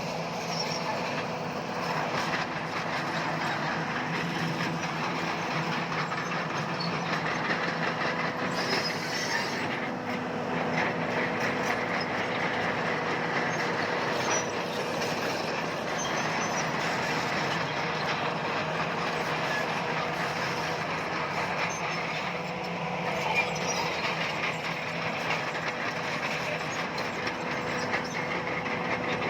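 Crawler bulldozer working: a steady diesel engine drone with the dense metallic clatter of its steel tracks.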